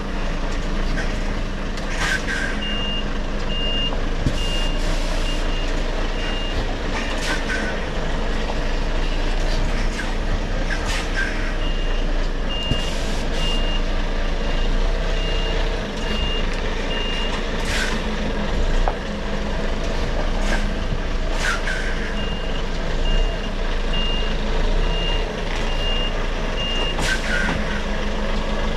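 Articulated lorry reversing: its reversing alarm beeps about twice a second in three runs of several seconds each, over the steady running of the diesel engine. Brief sharp noises break in every few seconds.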